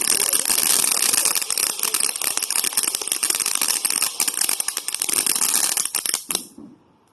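Crackling firework going off as a fast, dense crackle of many small pops, which stops about six and a half seconds in.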